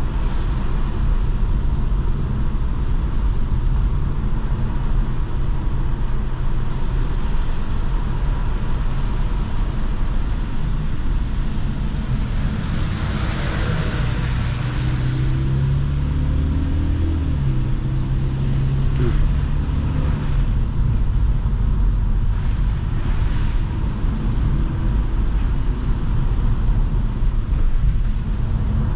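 Mercedes-AMG C43 under way: steady engine and tyre rumble, with a rushing whoosh about twelve seconds in and a clearer engine note about halfway through that briefly breaks off before picking up again.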